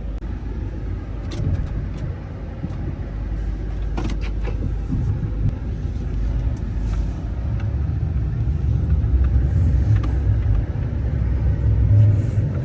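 Single-cab pickup plow truck driving, heard from inside the cab: a steady low engine and road rumble that grows somewhat louder about halfway through, with a few light clicks.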